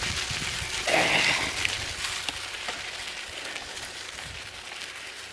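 Steady hiss of wind and bicycle tyres rolling while riding, with a brief louder gust about a second in and a few faint clicks, slowly fading.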